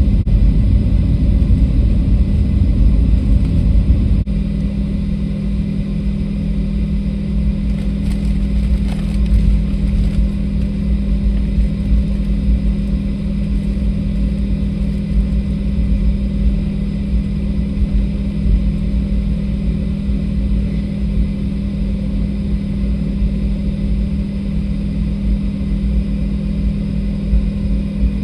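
Airliner cabin noise: a steady low rumble with a constant hum. About four seconds in, the broader roar drops a little.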